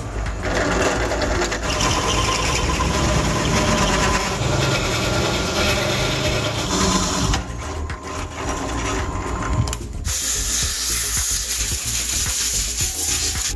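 A small power tool running in stretches with a whirring, rattling mechanical sound. The sound changes about seven seconds in, and from about ten seconds it turns into a brighter, hissier noise.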